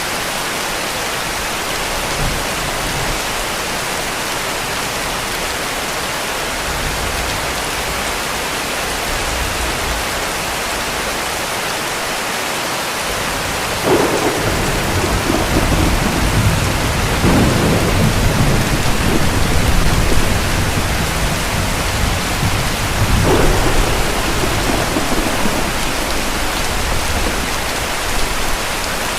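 Steady heavy rain, with a long roll of distant thunder starting about halfway through and rumbling for around twelve seconds before fading back into the rain.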